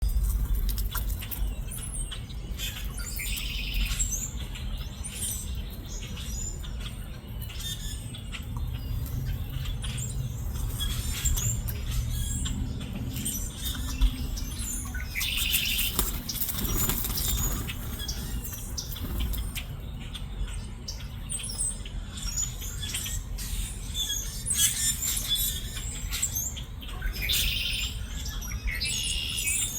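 Birds calling now and then in short high chirping bursts, three times, with many scattered small clicks and rustles and a steady low rumble underneath.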